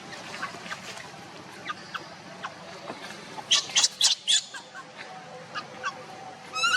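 Baby monkey giving short, high-pitched squeaks: a few faint ones, then a quick run of about five loud squeaks about three and a half seconds in, and a few more near the end.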